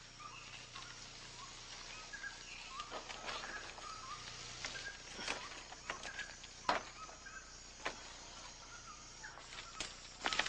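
Rainforest ambience: birds calling in short chirps, with scattered sharp snaps or rustles, the loudest a little past the middle.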